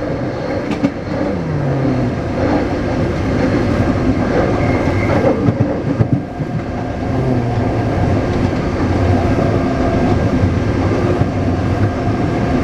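Taipei Metro 381-type train running on the line: traction motor tones change pitch with speed, with a falling note about a second in, over steady wheel-and-track running noise.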